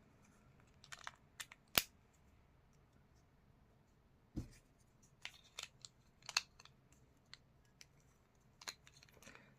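Scattered small plastic clicks and taps of a car key fob's casing and parts being handled and fitted back together, with a duller knock about four seconds in.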